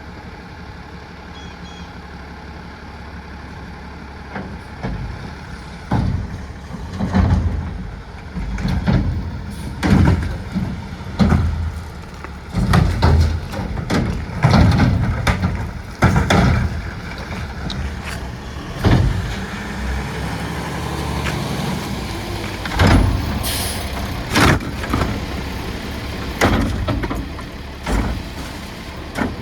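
Garbage truck running steadily, then a long irregular series of loud bangs and clunks as bins are lifted and emptied into it. A burst of air hiss comes about two thirds of the way through.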